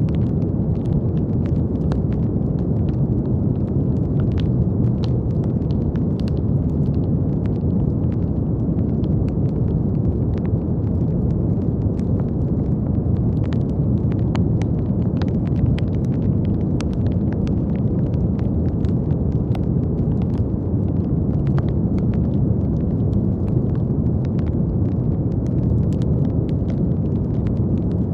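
Steady brown noise, a deep, even hiss, with small faint crackles scattered all through it.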